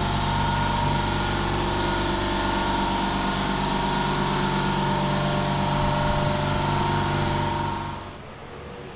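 Workshop air compressor's electric motor running steadily with a low hum and a whine, then stopping about eight seconds in, leaving a quieter steady hiss.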